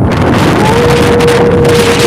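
Strong wind gusting over the microphone with a heavy rumble. A steady whistling tone comes in under a second in and holds.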